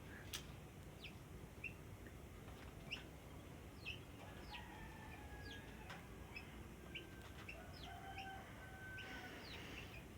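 Yellow-vented bulbul (trucuk) giving short, faint chirp notes, a dozen or so quick downward-sliding chirps scattered irregularly.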